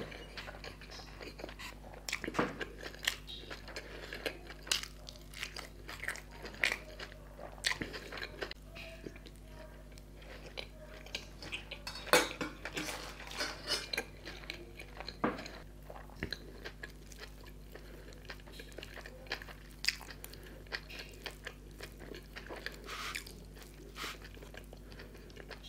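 Close-miked chewing of food: irregular wet smacks and crunchy clicks from a person's mouth, over a faint steady hum.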